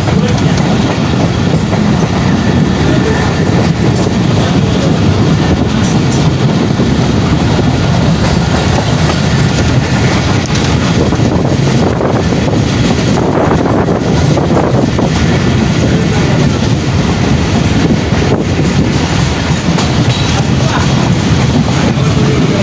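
Karachi Circular Railway passenger train in motion, heard from aboard: a loud, steady rumble of the carriage running on the rails, with wheel clatter over the track.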